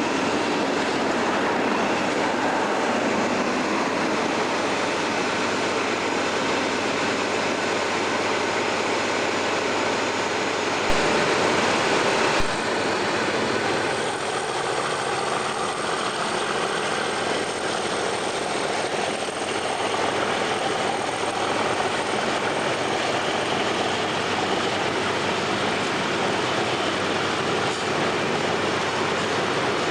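Diesel-hauled freight train passing on the main line, its wagons rolling over the rails with a steady rumble.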